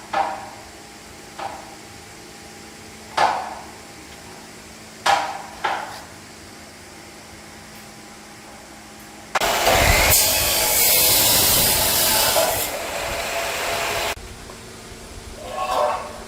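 Workshop tool work: a few sharp knocks with a short ring, then about five seconds of loud, harsh, even noise that starts and stops abruptly, then one more knock near the end.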